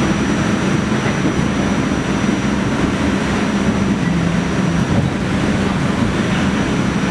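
Staten Island Railway R44 train heard from inside the car while running at speed: a steady rumble of wheels on rail and traction motors with a low hum and a thin, steady high tone over it.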